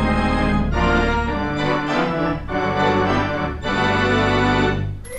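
Organ music playing chords in blocks of about a second each, ending abruptly near the end.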